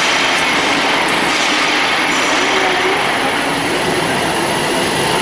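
Band saw running, a steady loud machine noise with a thin high whine over it.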